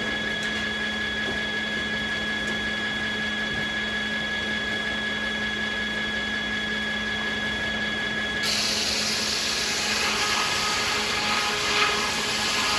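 Sawmill saws running with a steady whine. About two-thirds of the way in, a loud hissing rush sets in and lasts to the end, as a saw cuts through beech.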